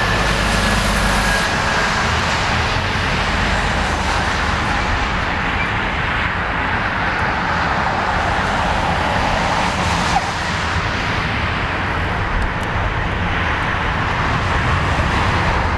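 Jet airliner's engines at takeoff power, a loud, steady roar.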